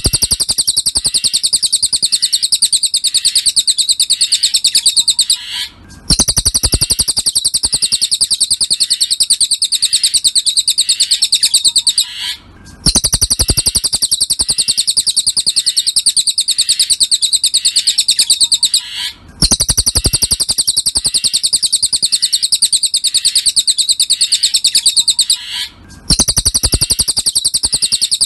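Cililin bird song used as a masteran tutor track. It is a fast, even, high trill in long phrases of about six seconds, broken by short pauses and repeating the same way each time.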